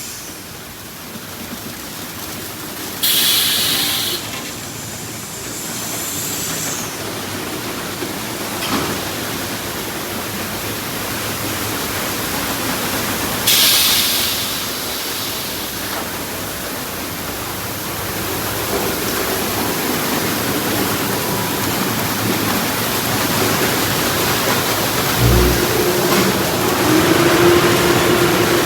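Ryko automatic car wash running over a car: steady spray noise with two short, loud hissing bursts, and a steady machine hum that comes in after a low thump near the end.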